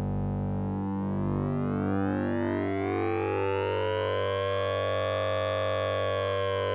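Synthesizer drone from the Orange Vocoder plugin using sync and ring modulation. A steady low hum sits under a dense set of overtones that slowly sweep upward and arch over, like a slow siren.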